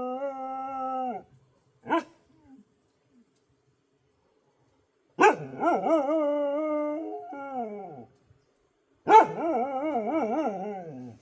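A dog howling in long, wavering notes. One howl trails off about a second in, a short bark comes about two seconds in, and two more howls follow, one about five seconds in and one about nine seconds in. The last howl falls in pitch as it ends.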